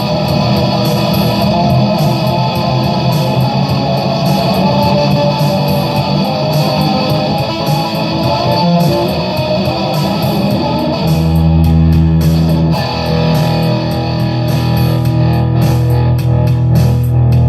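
Electric guitar through distortion playing improvised lead lines, quick changing notes for the first ten seconds or so, then low notes or chords held and left ringing.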